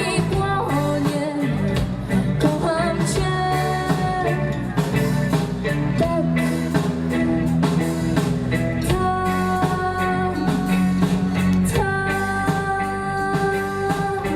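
Live rock band playing: electric guitar, bass and drums, with long held melody notes, some of them wavering.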